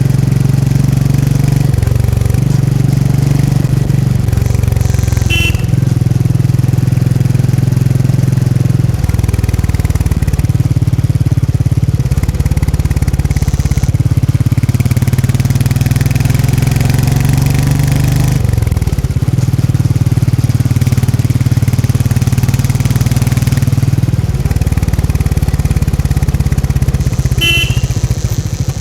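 Royal Enfield Meteor 350's single-cylinder engine and exhaust while riding, the note stepping and sliding up and down several times as throttle and gears change. A brief high chirp sounds twice, a few seconds in and near the end.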